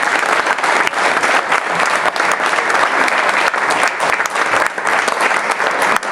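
Audience applauding loudly and steadily, dense clapping with no break.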